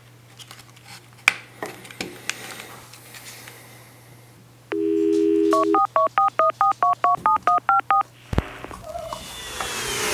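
Telephone dial tone for about a second, then a quick run of about fifteen touch-tone key beeps as a number is dialled. A few faint clicks come before it, and a rising whoosh follows near the end.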